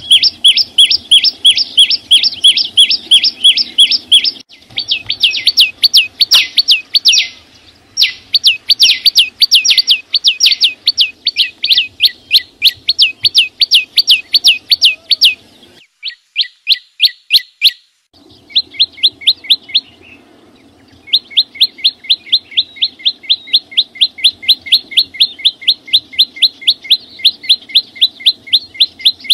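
A small songbird, the 'chim sâu xanh', singing long runs of short, sharp, down-slurred notes at about five a second, broken by a few short pauses. A faint low hum runs beneath.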